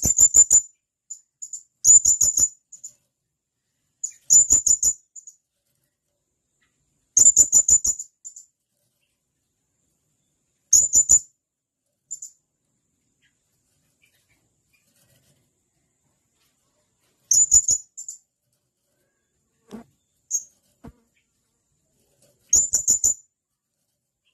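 Blue-crowned hanging parrot (serindit) giving its sharp, high-pitched call: short bursts of rapid shrill notes, each under a second long, repeated about eight times with gaps of one to several seconds between them.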